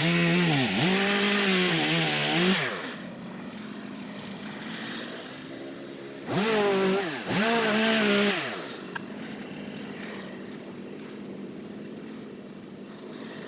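Chainsaw at full throttle cutting wood, its engine pitch sagging and recovering under load, then dropping back to idle about two and a half seconds in. It is revved into a second cut of about two seconds around the middle, then idles again.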